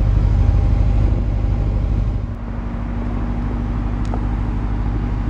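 Alpina B7's twin-turbocharged 4.4-litre V8 idling, heard at the quad exhaust tips as a deep, steady exhaust rumble. The rumble eases slightly about two seconds in, then holds steady.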